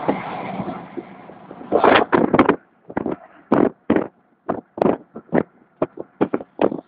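Steady vehicle engine noise dies away, then a run of short, sharp pops or bangs starts about two seconds in and goes on at an irregular pace of roughly two a second.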